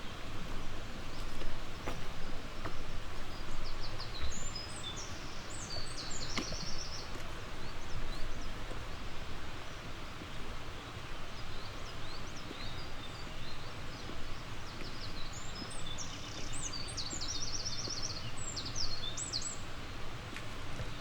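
Steady rushing of flowing stream water, with a songbird singing two short phrases of high chirps that each run into a rapid trill, a few seconds in and again near the end.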